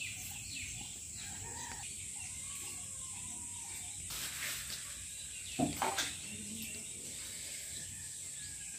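Faint bird calls over a steady high hiss of outdoor background, with two sharp knocks close together a little past halfway.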